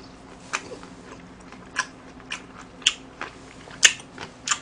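A person chewing food with the mouth closed, close to the microphone, with a few sharp, irregular mouth clicks.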